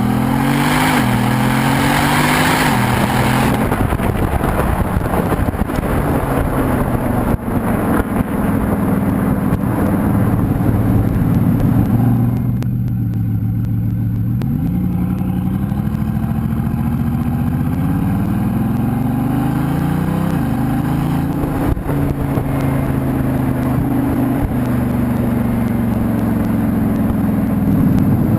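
Bugatti Veyron's W16 quad-turbo engine through a Quicksilver titanium exhaust, accelerating hard. Its pitch climbs and drops sharply at each upshift, several times over.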